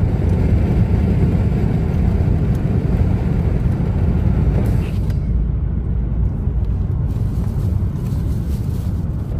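Steady road rumble heard from inside a moving car: tyre and engine noise, deepest in the low end, with a thin hiss above that fades for a couple of seconds a little past the middle.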